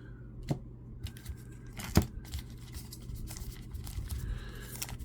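Foil trading-card pack wrapper crinkling and tearing as it is handled and opened, with scattered small clicks and a sharp click about two seconds in.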